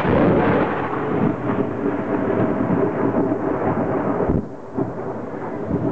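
Thunder: a loud, rolling rumble that drops away sharply about four seconds in, followed by smaller rumbles.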